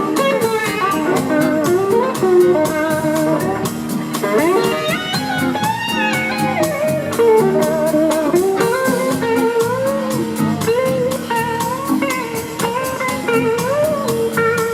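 Live blues-rock band playing an instrumental break: an electric slide guitar solo with gliding, wavering notes over a steady drum beat and the band's backing.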